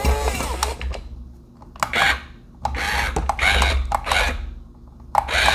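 Toy remote-control excavator digging into dirt: four bursts of gear-motor grinding and the bucket scraping, with short pauses between them.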